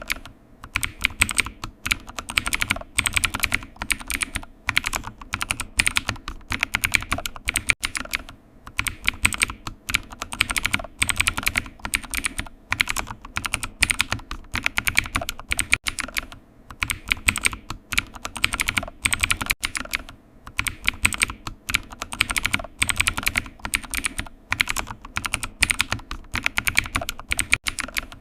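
Continuous typing on a computer keyboard: quick, irregular key clicks in runs, broken by short pauses.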